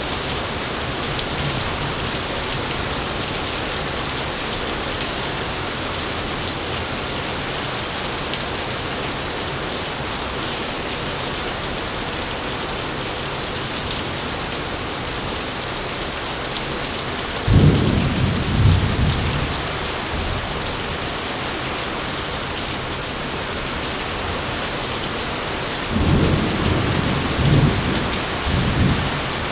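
Heavy rain falling steadily, with two rolls of thunder: a sudden low rumble a little past the middle, and another with several swells near the end.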